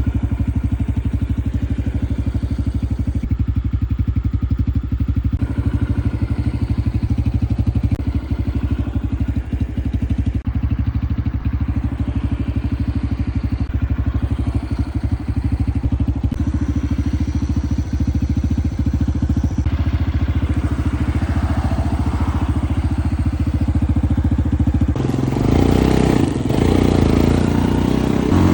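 Small single-cylinder engine of an off-road bike or ATV running steadily with an even, fast pulse. About 25 seconds in it gets louder, as if revving or pulling away.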